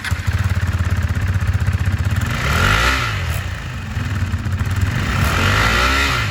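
2022 KTM RC 390's single-cylinder engine idling, then revved twice through its exhaust, once about two seconds in and again near the end, the pitch climbing and falling back each time.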